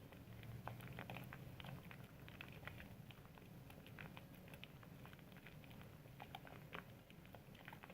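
Soap being lathered: faint, irregular wet crackling and squishing of foam, many small pops and clicks, over a low steady hum.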